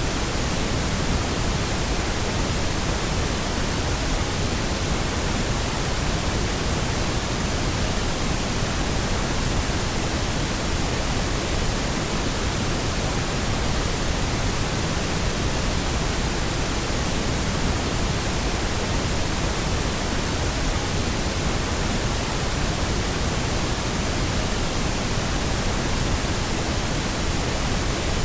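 Steady pink noise: an even, unchanging hiss spread across all pitches, with no breaks.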